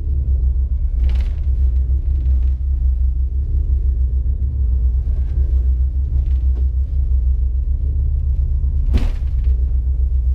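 A boat's engine running with a steady low rumble while the boat crosses rough seas, with two brief rushes of noise, about a second in and again near the end.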